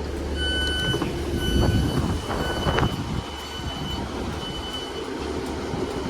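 Class 150/2 diesel multiple units drawing to a stop, brakes squealing in high steady tones over the low rumble of the diesel engines, with a few clunks from the wheels and couplings.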